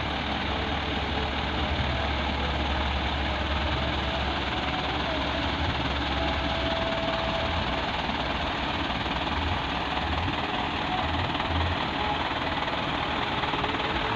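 Truck engine running steadily with a constant low hum.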